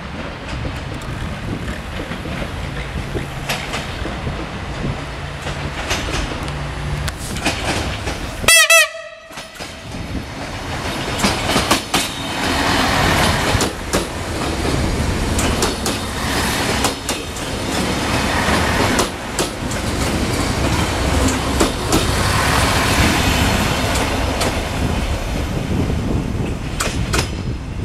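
Siemens Desiro diesel multiple unit: engine running with a steady low hum, then one short, loud horn blast about eight and a half seconds in. After a brief break, the train runs close by and away, its engine noise louder, with wheels clicking over the rail joints.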